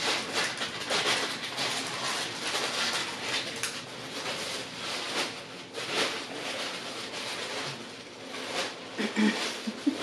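Close-miked eating: chewing and wet mouth smacks of cheese-sauce-covered fries, a dense run of small clicks and smacks.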